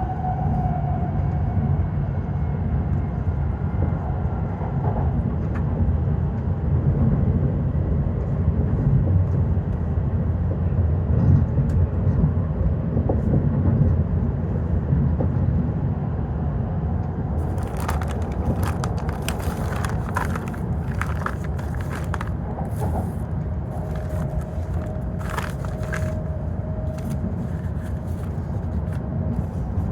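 Interior running noise of a W7-series shinkansen passenger car: a steady low rumble. A whine falls in pitch at the start, and from about eighteen seconds in there is a run of sharp clicks and rattles.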